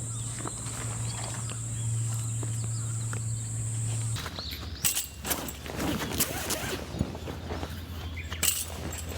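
A steady low hum and a steady high tone, with faint ticks, stop abruptly about four seconds in. Irregular clicks, knocks and rustling follow.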